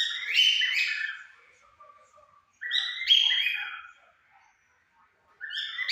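Pair of cockatiels calling in three loud bursts of whistled notes that fall in pitch, about two and a half seconds apart.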